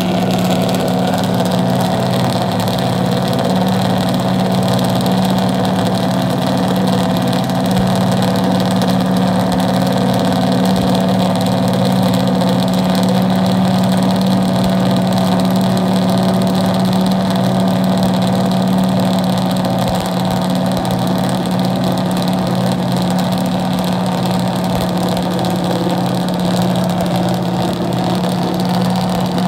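NASCAR Cup car's V8 engine running steadily at a fast idle while warming up, holding one even pitch with no revs.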